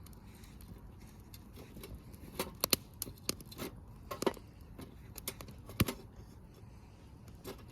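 Campfire crackling: irregular sharp pops and snaps of burning wood over a low steady hiss, with the loudest pops clustered in the middle.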